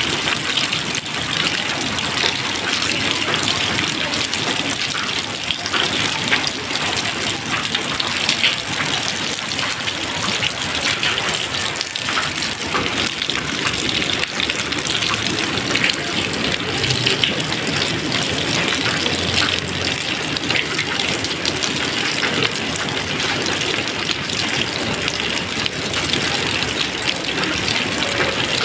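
Steady rain falling, an even dense hiss of water made up of countless small drop impacts, with no thunder or sudden sounds.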